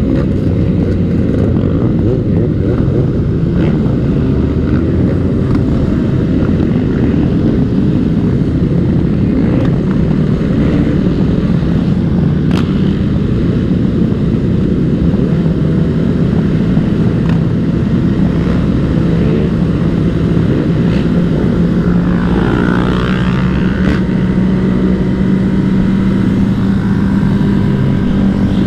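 Dirt bike engine running steadily on the move, mixed with heavy wind rush on the microphone; a steady engine note comes through more clearly in the second half.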